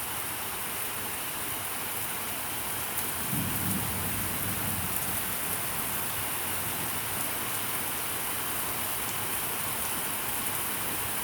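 Heavy rain falling steadily, with a low rumble of thunder rising about three seconds in.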